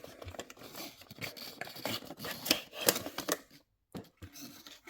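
Plastic packaging scraping, creaking and clicking as a diecast model is pushed out of its tray by hand, cut off briefly about three and a half seconds in.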